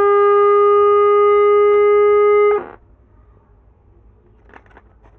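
Loud, steady humming tone from a CRT TV's speaker: the audio fault the set has, in a sound stage built around a 2003 sound IC. It cuts off abruptly a little past halfway, leaving only faint clicks.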